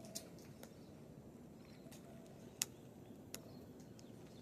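A cockatoo's beak crunching food: a few scattered sharp crunches, the loudest about two and a half seconds in.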